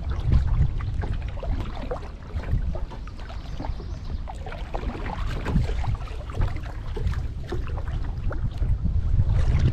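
Kayak paddle strokes splashing and dripping water, over a low rumble of wind on the microphone.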